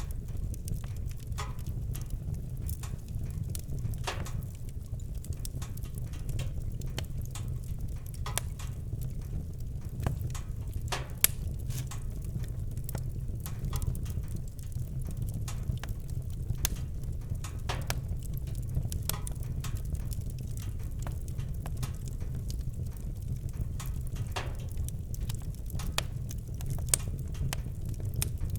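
Campfire crackling, with irregular sharp pops and snaps of burning wood over a steady low rumble; one pop about eleven seconds in stands out as the loudest.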